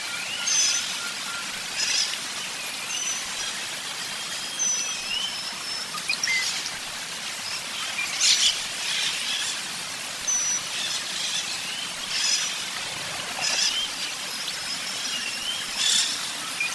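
Birds chirping and whistling over a steady hiss: short high whistles, rising glides and quick clusters of chirps, repeating every second or two.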